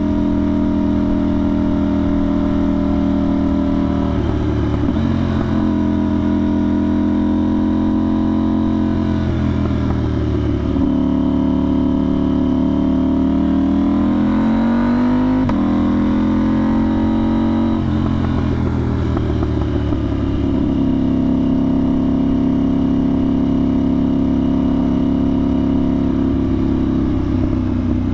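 A 2025 KTM 990 Duke's parallel-twin engine running through a budget aftermarket exhaust with the soundbox removed, loud and at mostly steady revs on the move. In the middle the pitch climbs for a few seconds, then drops sharply as the throttle is rolled off or a gear is changed, before settling steady again.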